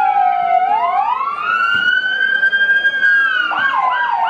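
Several emergency-vehicle sirens sounding together: two slow wailing tones rising and falling over each other, then about three and a half seconds in one switches to a rapid yelp.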